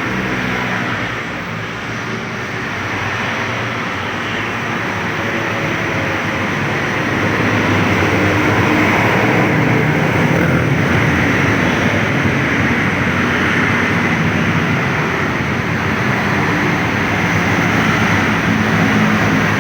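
Kawasaki trail KX 112's two-stroke engine running, getting louder about seven seconds in and holding there.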